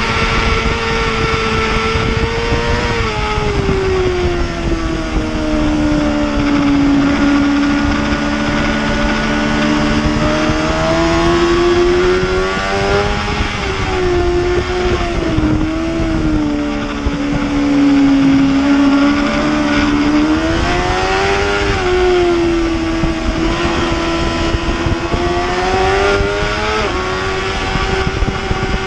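Racing superbike engine running hard throughout, its note falling and rising again several times as the rider comes off and back onto the throttle, over a steady rush of wind noise.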